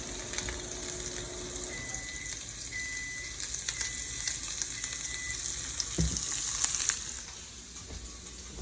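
Salmon and onions sizzling as they fry in a pan, with a steady hiss that drops away about seven seconds in. Four faint short beeps, about one a second, sound partway through, and a dull knock comes just before the sizzle fades.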